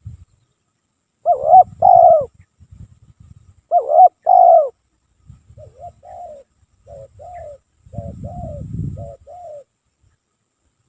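Spotted dove (tekukur) cooing: two loud two-note coo phrases, then a run of softer, shorter coos through the second half. A low rumble sits underneath.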